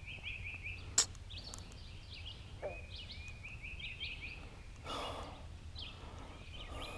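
A bird singing short chirping phrases over and over, with a sharp click about a second in and a sigh about five seconds in.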